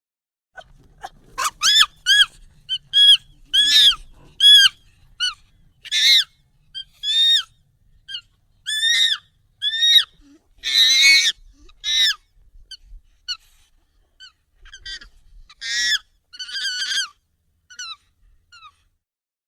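Monkey calls, sped up and pitched up: a run of short, arching hoots and squeals, one or two a second, with a few harsher screeches around the middle and again later on.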